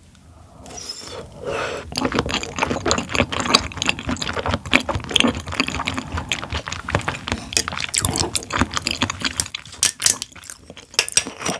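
Close-miked chewing of raw tuna sashimi: a dense run of wet mouth clicks and smacks that starts about a second in and thins to a few sharp clicks near the end.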